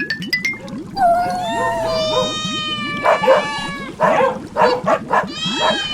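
Drawn-out, wavering animal-like cries that slide down in pitch, with a run of shorter calls after about three seconds, over a fast, steady rhythmic pulse of intro music.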